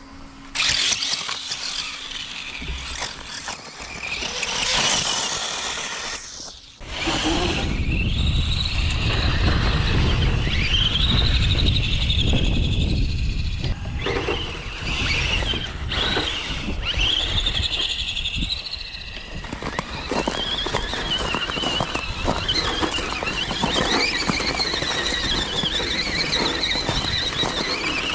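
RC car's electric motor and drivetrain whining at a high pitch that rises and falls with the throttle. A low rumble sits beneath it from about seven seconds in.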